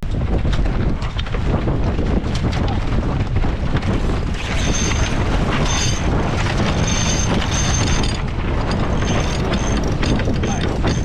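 Strong wind buffeting the microphone over water rushing along a sailing yacht's hull in rough waves. A thin high whistling tone comes and goes from about halfway through.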